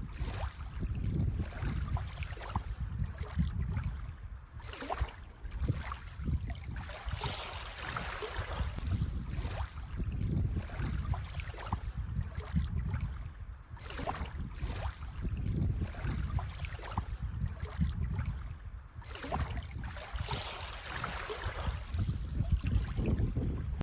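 Small waves washing up on a sandy beach, the hiss of surf swelling and fading every few seconds, over a steady low rumble of wind on the microphone.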